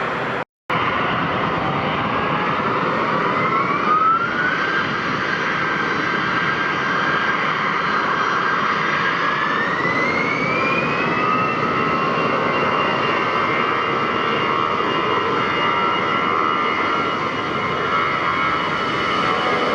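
Jet airliner's engines roaring, with a whine that rises in two steps, about four seconds in and again about ten seconds in, then holds steady as the engines spool up.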